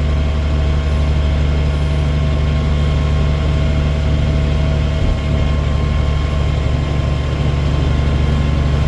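Dump truck's diesel engine running steadily with a deep, even drone.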